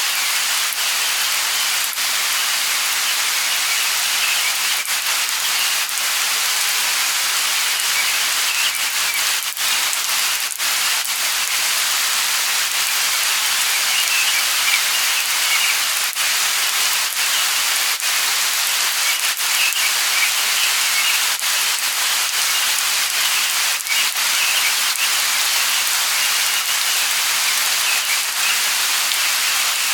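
Steady light rain, an even hiss of falling drops with scattered small drip ticks.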